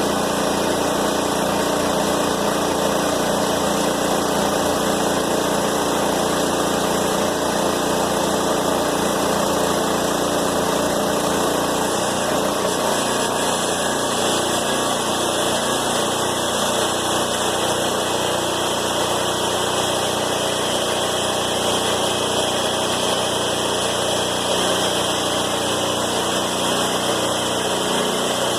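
Engine running steadily under a scrap baler job, its note shifting slightly about twelve seconds in.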